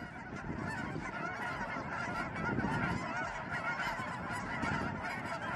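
A large flock of cackling and Canada geese calling continuously: a dense chorus of many overlapping honks and yelps.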